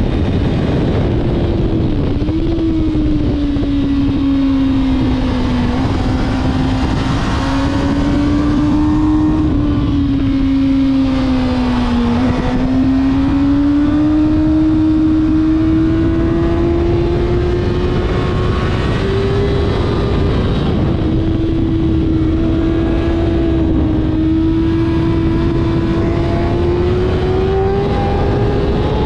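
Kawasaki ZX6R's inline-four engine running at speed, with wind rushing over the microphone. The engine pitch sinks slowly to a low point about twelve seconds in, then climbs steadily through the rest, with a few brief steps in pitch.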